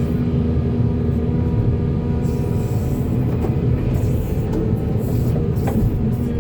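Volvo excavator's diesel engine running steadily under load, a heavy low rumble with a steady hum, and a brief squeak near the end.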